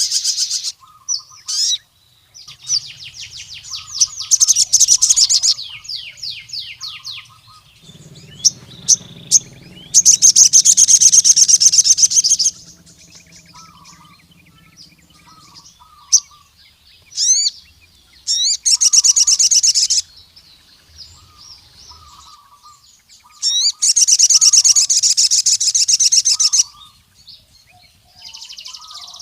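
Male sogon sunbird singing: bursts of rapid, high trilling chirps a few seconds long, repeated with short pauses and softer chirps between them. This is the loud song of a male calling out to rival males.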